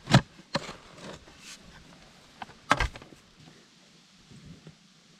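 A few heavy knocks: a loud one right at the start, a lighter one about half a second later, and a loud double knock near the middle, with small faint taps between.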